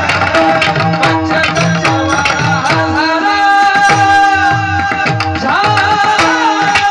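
Marathi kirtan singing: a male voice holds long, bending notes over a steady rhythm of hand-drum strokes whose bass notes slide downward.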